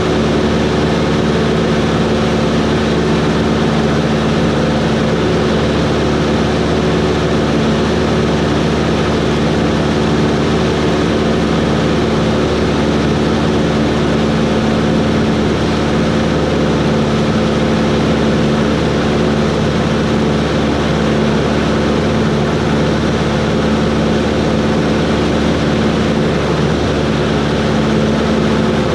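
Cessna 140's piston engine and propeller running at steady power, a constant drone that holds the same pitch throughout.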